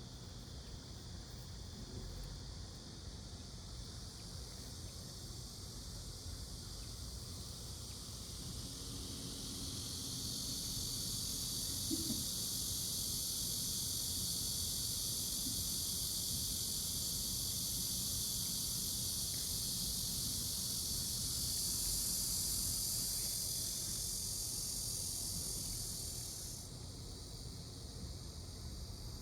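Fingers scratching a cat's chin fur: a steady, hiss-like rustle that grows louder about a third of the way in and stops abruptly near the end.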